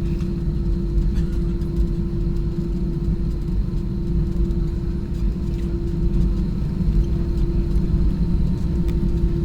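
Airliner cabin noise: a steady low rumble with a constant mid-pitched hum from the aircraft's engines and air system.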